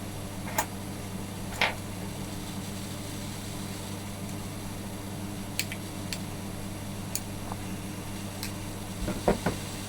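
Scattered small clicks and taps of plastic and metal parts being handled while an electric kettle's power button assembly is taken apart, with a few sharper clicks near the end, over a steady low hum.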